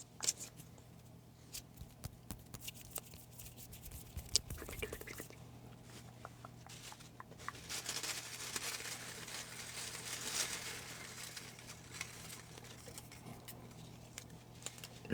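Quiet rustling and crinkling of paper slips being handled and unfolded, with scattered small clicks and a denser stretch of rustling about halfway through.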